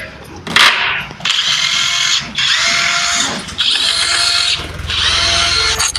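A power tool running in four bursts of about a second each, with short pauses between them.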